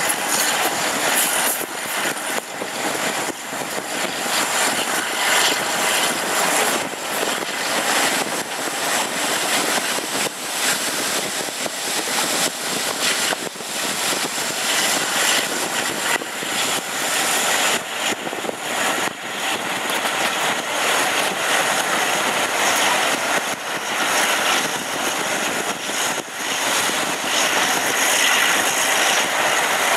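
A train under way, heard from an open coach window: a steady rush of wind on the microphone over wheel and track noise, with the drone of the Class 52 diesel-hydraulic locomotive's twin Maybach diesel engines working ahead.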